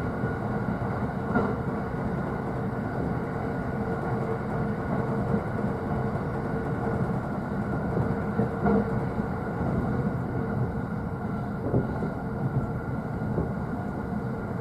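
Interior running noise of a JR East E531 series electric train heard from the upper deck of a double-deck car at speed: a steady rumble with a faint constant tone and an occasional faint knock.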